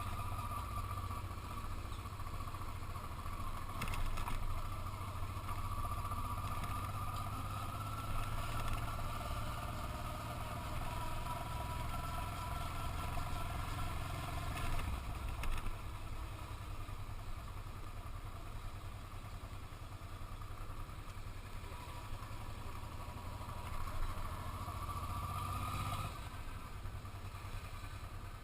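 Motorcycle engine running while riding, heard from on board with a low rumble and a wavering whine. A few brief knocks come through. The whine and rumble drop a little near the end.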